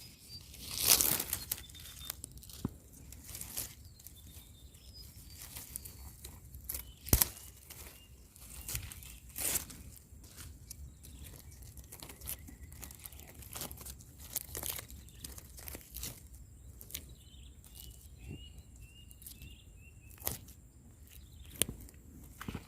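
Scattered rustling and sharp clicks, with a small bird chirping in short runs of quick notes in the background.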